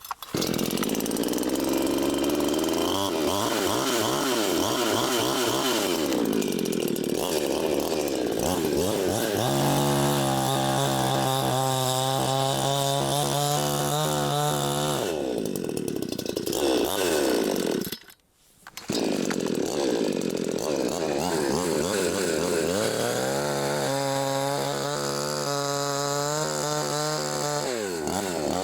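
Huter two-stroke chainsaw running hard while cutting firewood. Its engine revs up and down, with long stretches at a steady high speed. It cuts out briefly about two-thirds of the way through, then picks up again.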